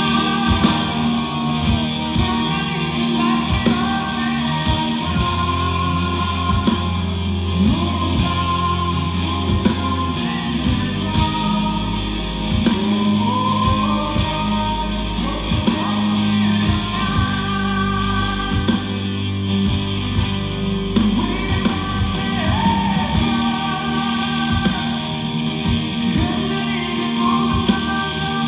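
Rock band playing live: a guitar-led instrumental passage, with gliding lead lines over held bass notes and a steady drum beat.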